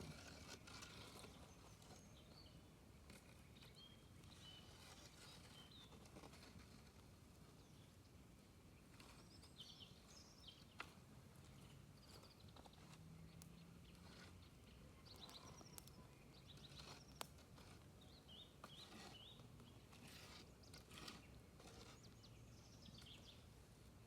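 Faint crackling of a smoky, smouldering campfire, with a few sharp pops, and birds chirping faintly.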